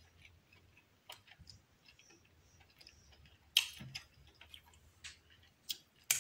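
Close-miked eating sounds of someone chewing lobster meat: scattered soft wet clicks and lip smacks, with a louder smack about three and a half seconds in and a few more near the end as she licks her fingers.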